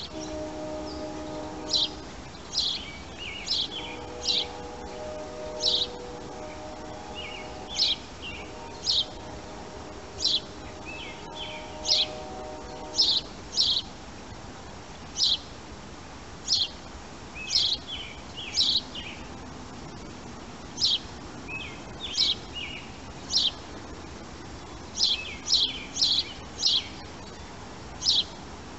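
Birds chirping: short, sharp high calls repeated roughly once a second, sometimes in quick pairs or triplets. A faint steady hum of several low tones runs under them until about halfway through.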